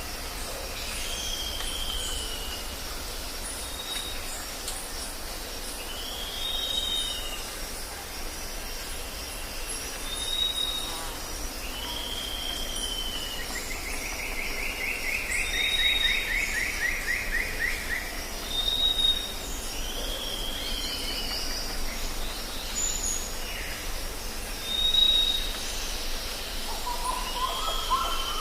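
Jungle ambience: several birds repeat short whistled calls over a steady high insect chorus, with a low background rumble. About halfway through one bird gives a longer rapid trill, and lower rising calls come in near the end.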